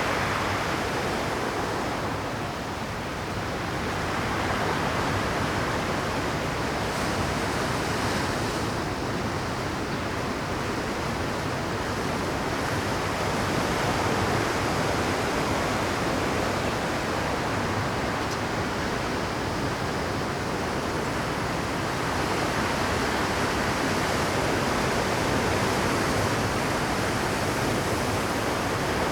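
Rough Pacific surf breaking and washing over shore rocks at high tide: a continuous rush of water that eases slightly about three seconds in and swells again a few times.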